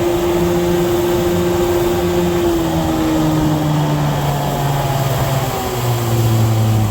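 Small outboard motor running with the boat under way, its pitch easing down a little about two and a half seconds in and dropping again near the end.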